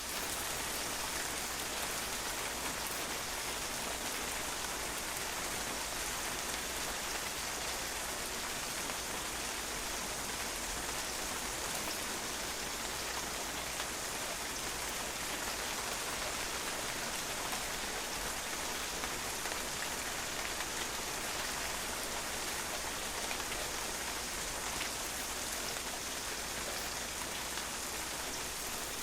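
Steady rain falling and dripping onto a patio, a dense, even patter of drops on a hard surface that doesn't change.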